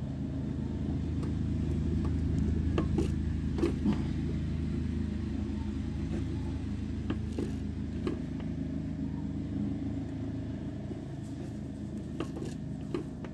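Steady low rumble of an idling car engine, picked up through the camera resting on the master cylinder, with a few light clicks and taps.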